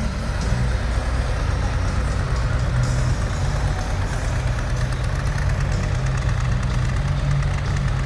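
Harley-Davidson Road Glide's V-twin engine idling steadily, with no revving.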